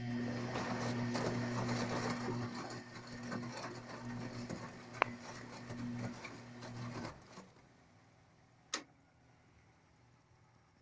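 Bosch front-loading washing machine running with a steady low hum and a rushing noise for about seven seconds, then stopping. There is a sharp click about five seconds in and another about two seconds after it stops.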